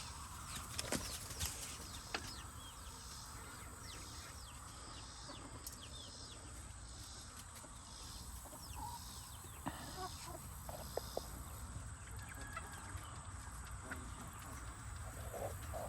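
Backyard chickens clucking softly, with scattered short high chirps and a few low calls near the middle and the end.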